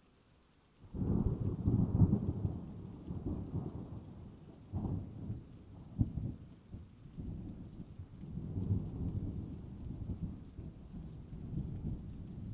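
Thunder: a deep rumble breaks in about a second in and rolls on in repeated swells, with a sharper crack about six seconds in, easing off near the end. Faint rain sits underneath.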